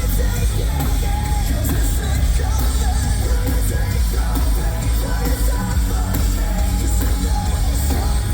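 Metalcore band playing live at full volume, with heavy bass and drums, cymbals and vocals, heard through a concert PA from the crowd.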